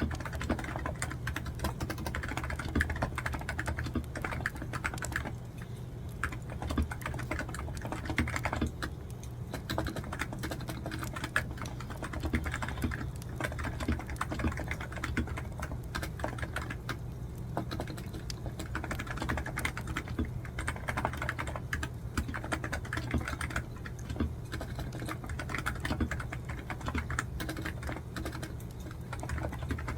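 Computer keyboard typing: a steady run of rapid, irregular keystrokes, over a steady low hum.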